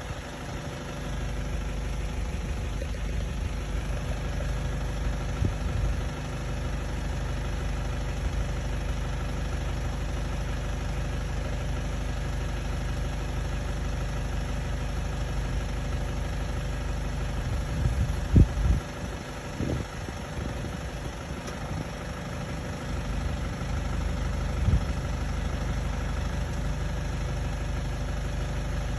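Vehicle engine idling steadily through an HY MAX exhaust muffler. A few brief, louder low thumps come about two-thirds of the way through.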